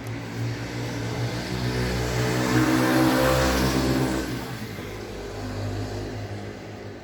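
Street traffic: a motor vehicle passes close by, its engine swelling to loudest about three seconds in and then fading, over a steady low rumble of traffic.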